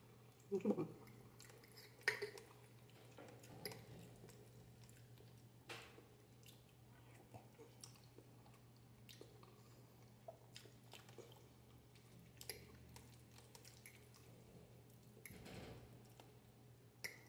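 A person chewing spaghetti and sausage close to the microphone, with soft wet smacks and mouth clicks scattered through. A faint steady low hum runs underneath.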